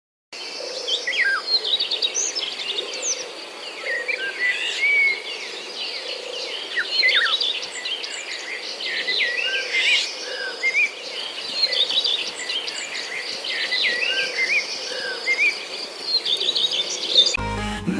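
Many songbirds singing at once, a dense chorus of overlapping short chirps and whistles. Music starts near the end.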